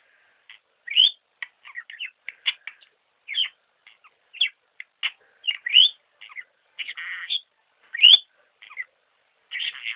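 Pet bird chirping in a run of short, quick calls, many of them sweeping upward, with a couple of longer scratchy chatters in the second half.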